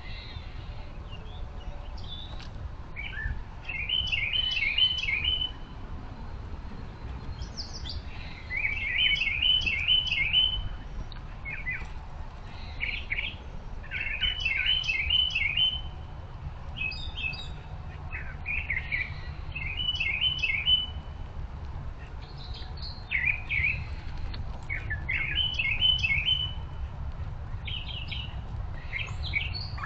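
Songbirds singing outdoors: one bird repeats a short phrase of quick, evenly repeated notes about every five seconds, with other scattered chirps between. A steady low rumble runs underneath.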